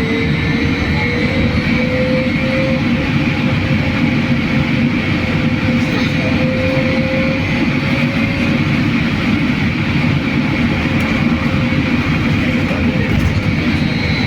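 Running noise inside a BKM-43300D trolleybus on the move: steady rumble and hum, with a faint whine from the electric drive that rises in pitch over the first few seconds as it gathers speed, then holds and fades.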